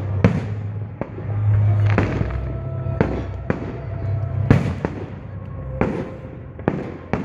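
Fireworks exploding at a display: about ten sharp bangs at irregular intervals over a low, steady rumble.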